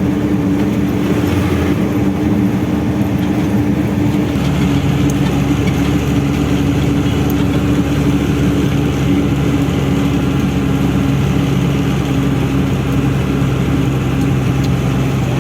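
Diesel engine of a loaded ten-wheel truck running steadily on the move. About four seconds in, its note drops to a deeper, stronger tone.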